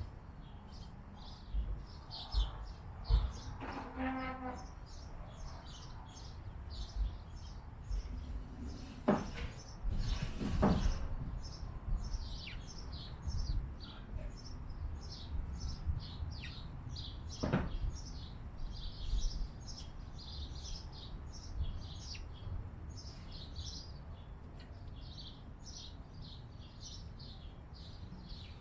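Small birds chirping over and over in a steady stream of short, high, falling chirps, over a low background rumble. A few louder short sounds stand out about nine, ten and seventeen seconds in.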